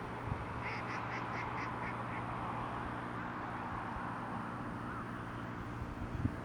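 A bird's quick series of about eight short, evenly spaced high notes, lasting a second and a half, over steady outdoor background noise with a low hum.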